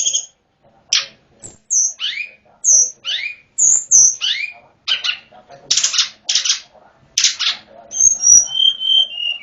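A tledekan gunung singing a varied song: a run of short whistled notes that slide down in pitch, then several harsh buzzy notes, then clear high whistles near the end.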